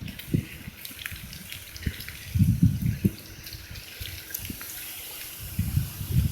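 Bicycle tyres splashing through water on a flooded road, with wind buffeting the phone's microphone in irregular low gusts and a few sharp clicks.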